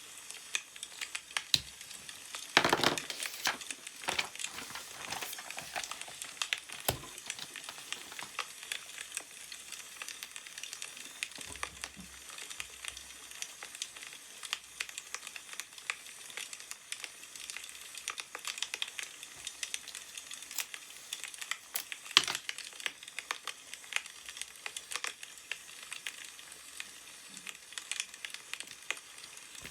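Wood fire crackling, with frequent small pops and one louder pop about 22 seconds in. A brief rustle of newspaper pages about three seconds in.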